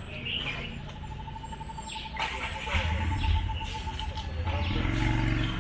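Birds chirping and calling, with a rapid, even trill held for a few seconds and a low rumble coming in over the second half.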